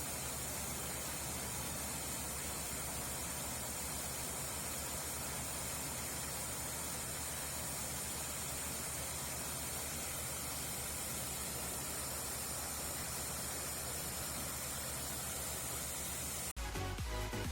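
Steady running noise of a corn combine harvester at work, an even hiss over a low engine hum. About a second before the end it cuts off abruptly and music begins.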